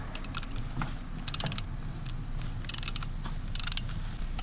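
Ratchet wrench clicking in short bursts, about five strokes of rapid ticks, as a bolt is run down by hand.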